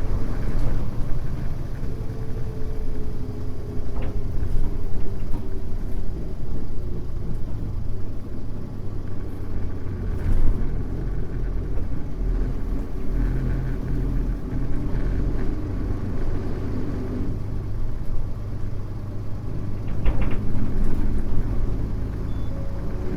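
Mitsubishi Fuso U-MK618J route bus driving, heard on board: a steady low engine and road rumble with a whine that slowly falls early on, later rises again, and a few light rattles and clicks.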